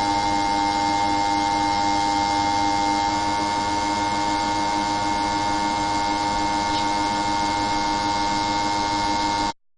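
A steady machine-like hum with several held tones, cutting off suddenly near the end.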